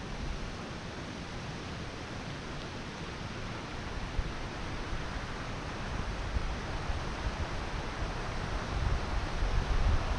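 Steady rushing natural ambient noise with no distinct events; low rumbling grows stronger near the end.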